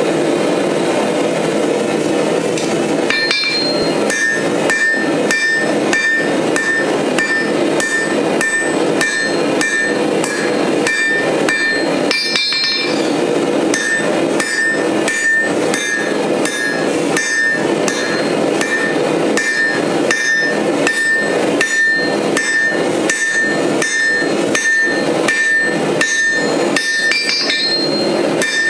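Hand hammer forging steel on an anvil: steady blows at about two a second, each with a bright metallic ring. The ringing starts about three seconds in, with a short break about halfway.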